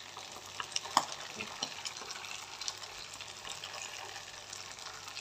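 Steamed corn patties shallow-frying in oil in a non-stick pan: a steady sizzle with scattered small pops and crackles, one sharper pop about a second in.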